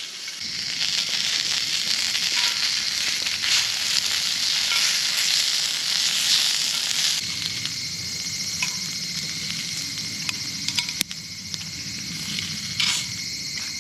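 Food sizzling in a frying pan, loudest for the first seven seconds or so and then quieter, with scattered small clicks and pops.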